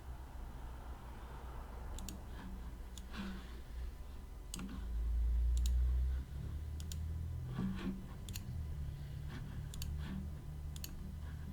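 Scattered single clicks from a computer mouse and keyboard, irregularly spaced, over a steady low hum.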